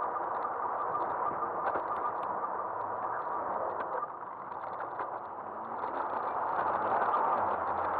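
Wind and road noise on a front-mounted action camera's microphone while riding an e-bike, with light rattling clicks from the bike. The noise eases about four seconds in and builds again near the end.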